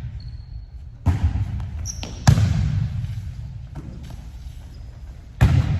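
Volleyball striking hands and the court floor: three sharp echoing thuds, the loudest about two seconds in and the last near the end. Faint high shoe squeaks come between them.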